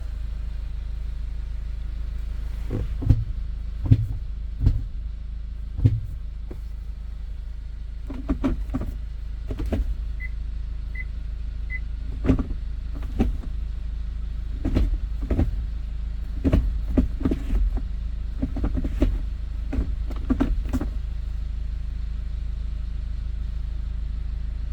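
Hyundai Porter II truck's engine idling steadily, with scattered clicks and knocks through it and three short electronic beeps about ten seconds in.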